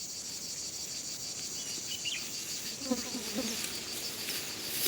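Steady high-pitched chorus of insects trilling, typical of crickets or cicadas, with a few short faint calls about three seconds in.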